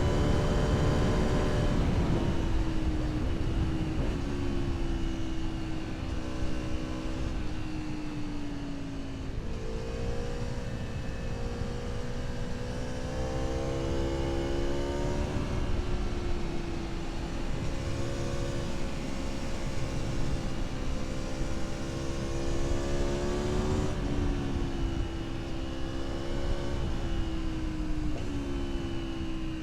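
Aprilia Tuono V4 motorcycle engine under way, its pitch climbing and dropping again and again as the bike accelerates, shifts and eases off, over a steady rush of wind.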